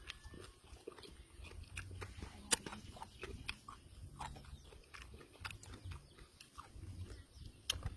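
Close-up chewing and biting: a man eating raw fish with papaya salad, with irregular wet mouth clicks and smacks.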